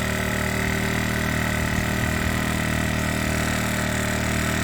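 Motorcycle engine idling steadily, holding an even speed without revving.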